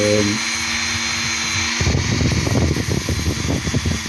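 Small handheld power tool running steadily, grinding or polishing a stone, with a brief hum about a second and a half in before the running sound goes on.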